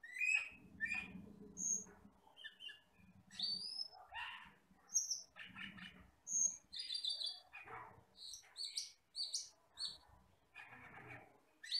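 Camperling (cucak keling) singing a quick run of short, varied chirps and whistles, some high and thin, some sliding or buzzy, with brief gaps between phrases.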